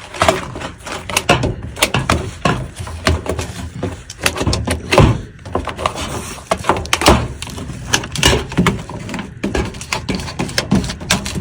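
Squeegee being worked around mastic tape on a furnace's sheet-metal cabinet, giving irregular knocks and short scraping strokes against the metal.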